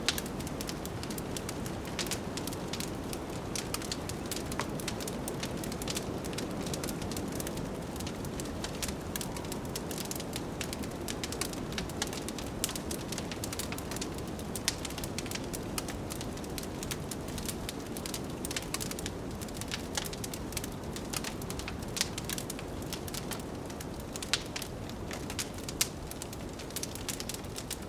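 Wood fire in a fireplace crackling, with frequent sharp pops and snaps, a few of them louder, over a steady low rush of blizzard wind.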